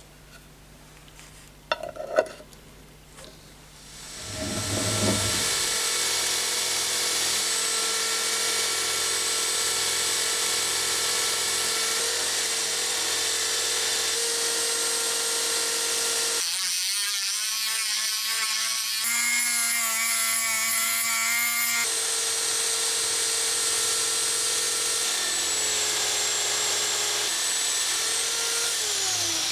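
Electric power tool motor starting after a couple of clicks and running steadily for about 25 seconds, its tone shifting for several seconds past the middle, then spinning down near the end.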